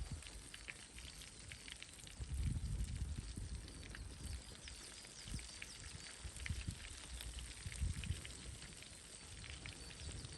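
Chicken karaage frying in oil over a campfire, with a steady sizzle and scattered small pops and crackles, and low rumbling gusts now and then.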